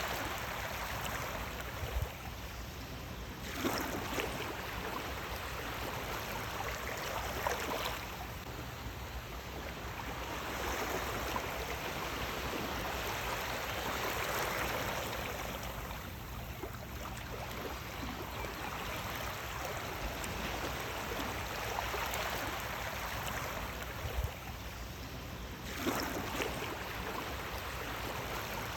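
Sea waves washing in: a steady rush of surf that swells and eases every few seconds.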